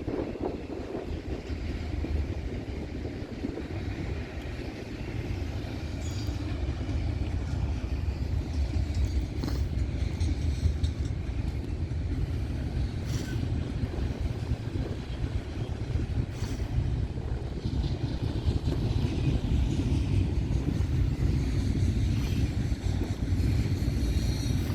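Norfolk Southern freight train rolling past on the adjacent track: a steady low rumble of wheels on rail, with a few short sharp clacks scattered through it.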